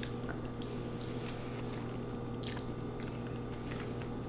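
Close-miked mouth sounds of someone eating lo mein noodles: soft chewing with a few wet clicks and smacks, over a steady low hum.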